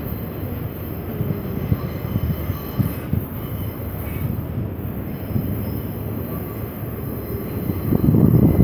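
Freight train of autorack cars rolling past: a steady low rumble of steel wheels on the rails, with faint high-pitched wheel squeal. It gets louder near the end.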